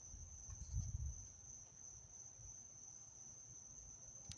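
Faint, steady, high-pitched night chorus of crickets. There are low rumbling thumps about a second in and a single sharp click near the end.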